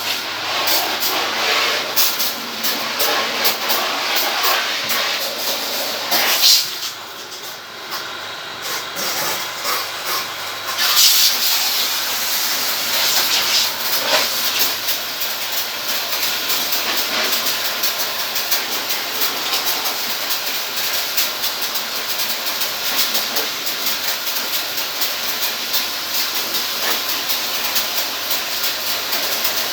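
Steady hiss of a water jet spraying onto an air conditioner unit, with a short drop in level about seven seconds in.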